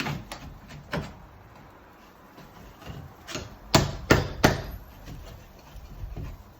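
Hammer blows at irregular intervals: a few scattered strikes, then three loud ones in quick succession a little past halfway.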